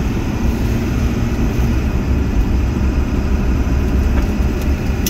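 Steady low engine and road rumble inside the cab of a moving pickup truck.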